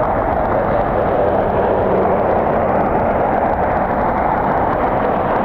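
Steady jet engine roar of a Southwest Airlines Boeing 737 departing.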